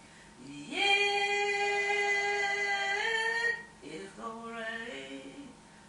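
A voice singing unaccompanied in a gospel worship style. It holds one long note, with a slight rise near the end, for about two and a half seconds, then sings a shorter, lower phrase.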